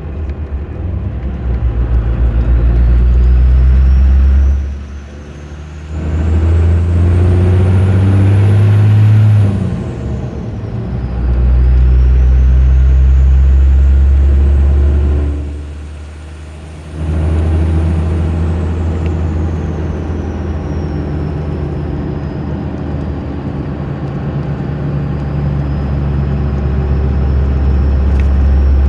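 Cummins 12-valve diesel with an HX35 turbocharger and 4-inch straight pipe pulling through the gears. The turbo whistle climbs in pitch as the turbo spools, falls away when the engine drops off during two gear shifts, climbs again, then settles to a steadier whine under cruise.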